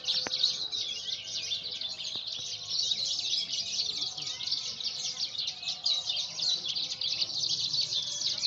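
Javan bush larks (branjangan) singing: a dense, unbroken stream of rapid high chirps and trills.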